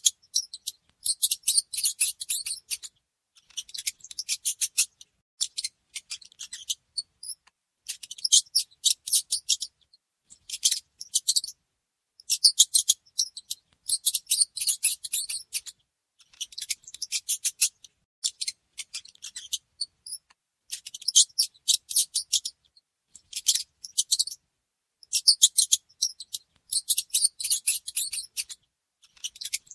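Mice squeaking: bursts of rapid, high-pitched chirping squeaks, each burst lasting a second or two with short pauses between, repeating over and over.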